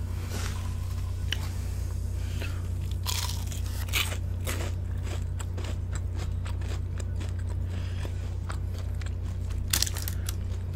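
Close-miked chewing of crisp Korean fried chicken: a run of sharp crunches, thickest in the second half, over a steady low hum.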